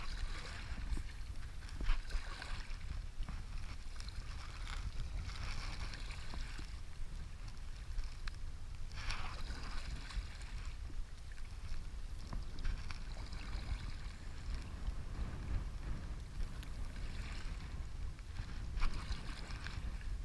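River water rushing and splashing around a whitewater stand-up paddleboard, with wind rumbling on the microphone and a few sharp knocks.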